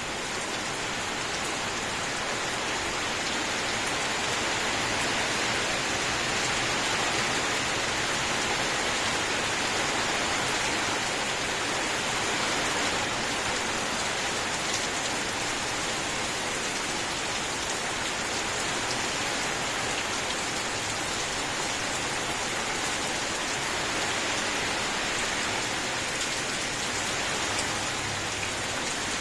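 Steady rain falling on a surface, an even hiss of many drops that neither builds nor eases.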